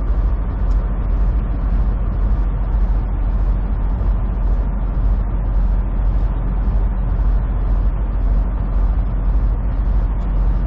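Semi truck driving, heard from inside the cab: a steady low diesel drone mixed with road noise.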